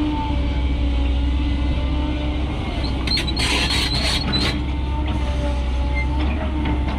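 Diesel engine of a Mercedes Atego dump truck running steadily with a deep rumble. About three seconds in, a brief hissing, squealing burst lasting about a second and a half.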